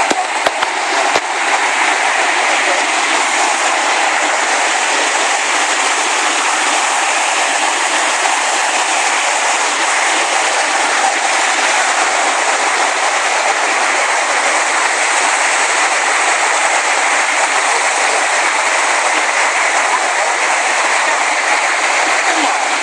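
Waterfall, its falling water rushing in a steady, unbroken hiss. A few small knocks sound about a second in.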